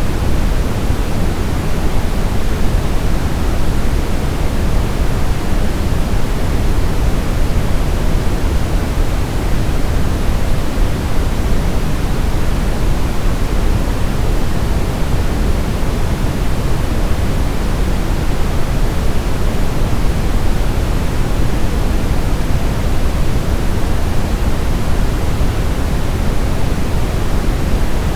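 Steady synthetic noise, weighted toward the low end like pink noise, constant in level and unchanging throughout, used as a baby sleep sound.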